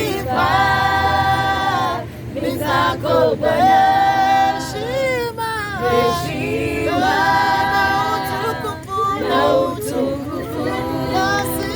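A choir singing a worship song a cappella, many voices in harmony holding long notes in phrases a few seconds long with brief breaks between.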